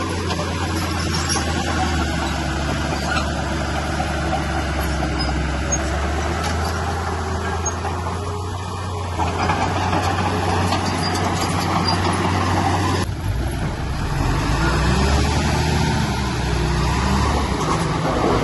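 Heavy diesel engine of earthmoving machinery running under load. Its note changes about thirteen seconds in, then rises and falls.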